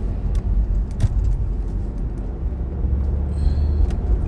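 Steady low road rumble inside a moving car's cabin, with a few faint clicks.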